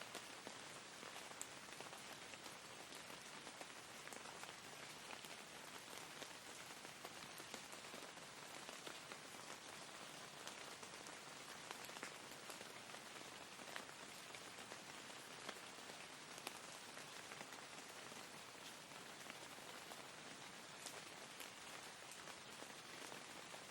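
Steady, soft rain falling on a surface, with scattered individual drops pattering.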